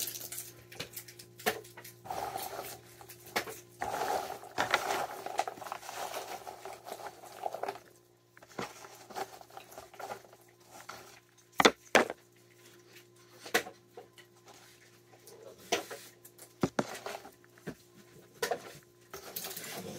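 Raccoon handling and eating peanuts on a table: scattered clicks, taps and rustling of shells, with two sharp knocks about halfway through. A steady low hum runs underneath.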